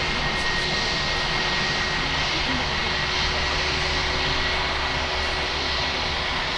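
Aircraft engines running close by: a steady, even rush of engine noise with a thin high whine over it.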